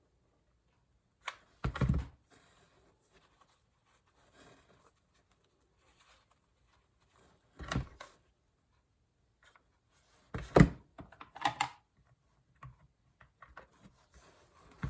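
Handling noises of craft work: a few scattered knocks and rustles, the loudest about two seconds in and again about ten and a half seconds in.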